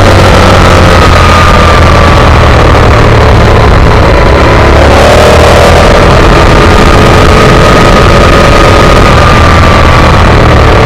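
Aprilia Tuono 1000 R V-twin motorcycle engine running at fairly steady revs, its pitch drifting slightly, under a loud, even rush of noise.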